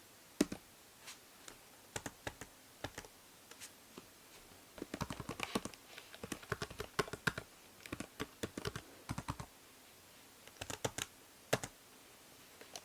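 Typing on a computer keyboard: a few scattered keystrokes, then a fast run of clicks in the middle and a short burst near the end, with pauses between. A steady hiss from the binaural microphone lies underneath.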